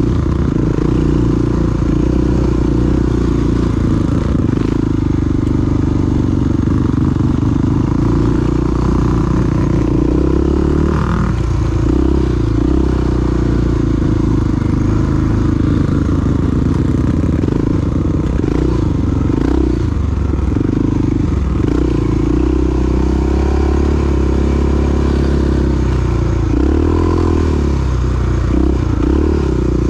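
Big single-cylinder four-stroke dual-sport motorcycle engine running under way. Its pitch rises and falls as the throttle changes.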